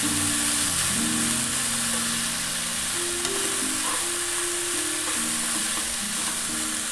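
Sprouted fenugreek seeds and ground spices sizzling in oil in a frying pan while a spoon stirs and scrapes them through, with a steady hiss. Background music of slow held notes plays under it.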